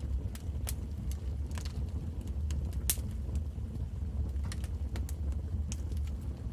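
Wood fire crackling in a fireplace: irregular sharp pops and snaps, the loudest about three seconds in, over a steady low rumble.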